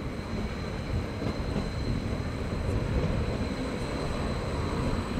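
Train moving through the station: a steady low rumble with a thin, steady high whine held over it.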